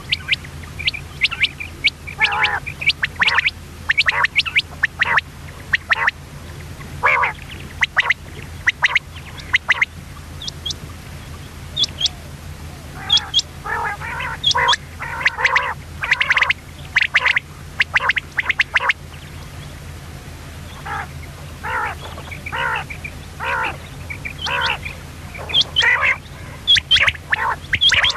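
Common quail calling: many short, sharp notes, often in quick runs of several, repeated irregularly throughout. A steady low hum runs underneath.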